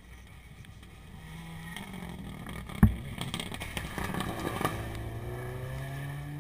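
Rally car engine at full throttle, its pitch climbing steadily as the car accelerates away out of a corner. A single loud, sharp thump comes about three seconds in, followed by a rush of noise.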